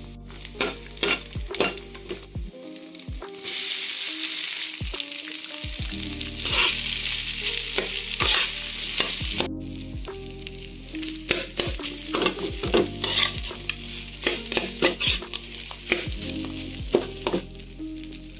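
Food frying in an oiled wok: garlic, fried pork intestines, rice and egg, sizzling while a spatula stirs and scrapes, with repeated sharp clicks of the spatula on the pan. The sizzle is loudest from a few seconds in to about halfway through.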